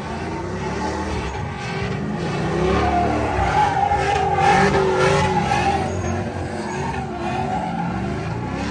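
Truck tires squealing over a hard-running engine, as in a burnout, with a wavering squeal that swells loudest about halfway through.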